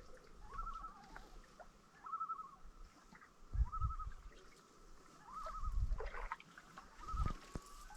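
A bird calling a short warbling phrase over and over, about six times, roughly once every second and a half, with low thumps underneath.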